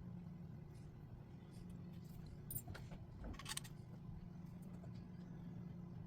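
Faint clicks and light metallic taps of small Onity door lock parts being handled and greased, a few clustered near the middle, over a steady low hum.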